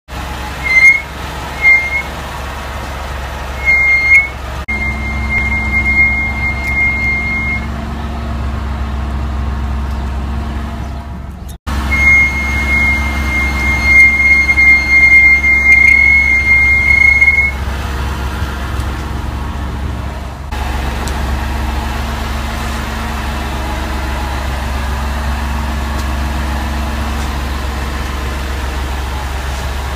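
Ford Escape's brakes squealing: a high, steady squeal that comes as three short chirps, then in two long stretches of a few seconds each, over the car's steady low rumble.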